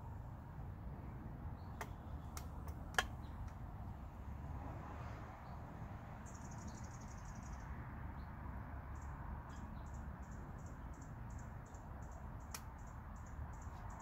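Outdoor urban garden ambience: a steady low rumble of distant city noise, with a small bird's very high, short chirps. They come as a quick trill about six seconds in, then repeat about twice a second. A few sharp clicks fall in the first three seconds, the loudest about three seconds in.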